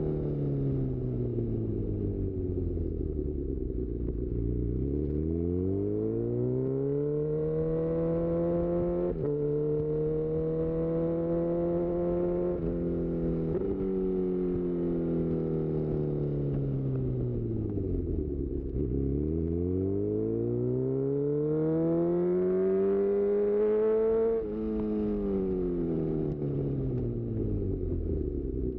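2018 Honda CB1000R's inline-four engine through a full-system Black Widow exhaust, heard from on the bike: the revs fall twice as it slows and rise twice as it accelerates hard. Each acceleration ends in a quickshifter upshift, the pitch dropping suddenly, the second with a short dip in loudness.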